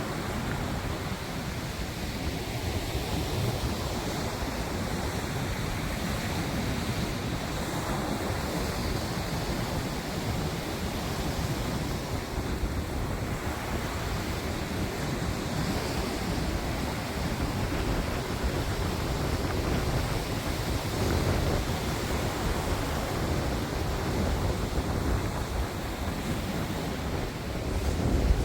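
Steady wind buffeting the microphone, with a continuous rushing like surf.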